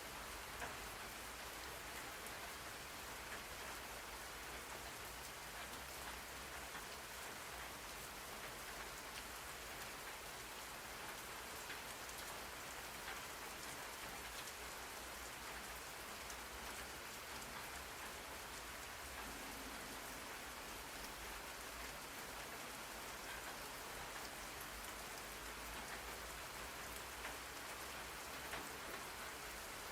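Steady rain falling on a surface, an even hiss with many fine scattered drop ticks.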